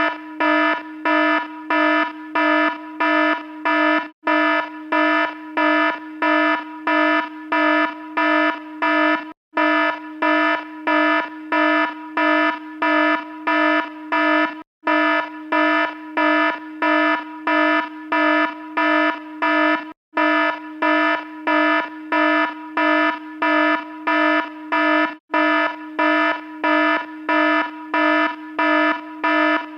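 Electronic alarm beeping steadily, about two buzzy beeps a second, with a brief pause about every five seconds.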